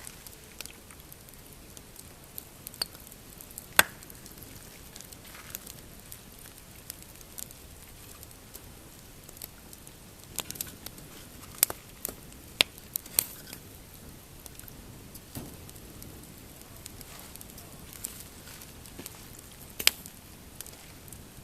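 Pine campfire crackling, with scattered sharp pops over a soft steady hiss; the loudest pops come at about 4, 12 and 20 seconds in, with a cluster of them between 10 and 13 seconds.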